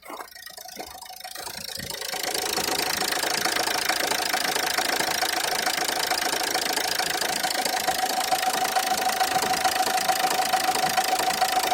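Renault Scenic II engine running with a rapid knocking from the engine bay, which the owner puts down to a pulley. The sound builds up over the first two seconds, then holds steady with a continuous whine over the knocking.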